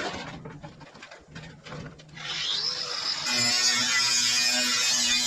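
Scattered knocks and rubbing of building materials being handled, then a handheld power tool's electric motor spins up about two seconds in and runs steadily and loudly.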